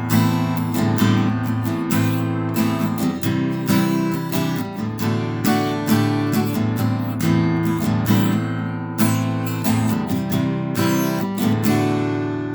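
Acoustic guitar strummed in a steady rhythm, an instrumental passage of a country-rock song with no singing.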